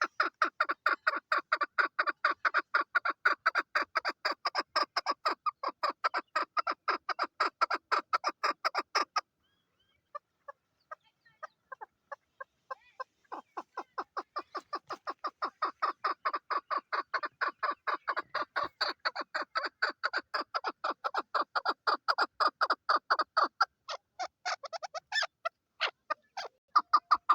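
Female chukar partridge calling: a fast run of short clucking notes, about five a second, that breaks off about nine seconds in, comes back as scattered notes, then builds again into a long fast run.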